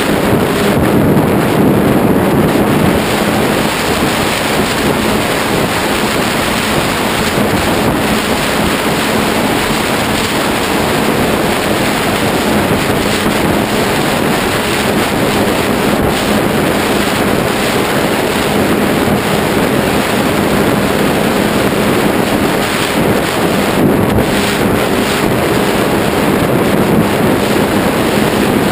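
Heavy wind rushing over a GoPro's microphone, with the steady hum of the Ritewing Zephyr II flying wing's electric motor and propeller underneath.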